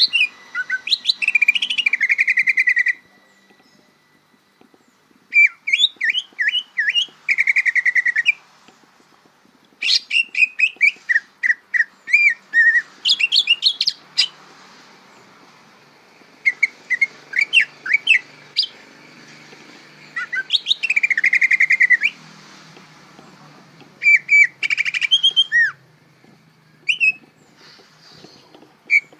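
Green leafbird (cucak ijo) singing its practising, still-unformed song: bursts of rapid chirps, whistled notes and trills a few seconds long, broken by short pauses. This is the rambling song of a bird that is still learning its song.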